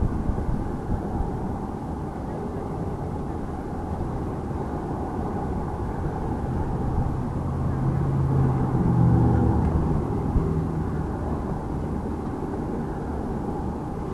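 Jet noise from F-5N Tiger II fighters, each with twin J85 turbojets, making a formation flyby: a steady roar that builds to its loudest about nine seconds in and then fades.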